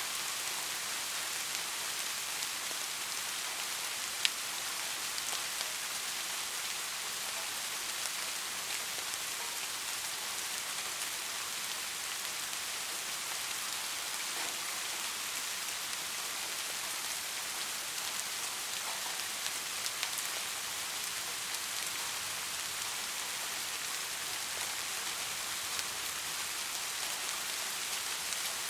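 Steady, gentle rain falling, an even hiss with scattered drop ticks and one sharper drop click about four seconds in.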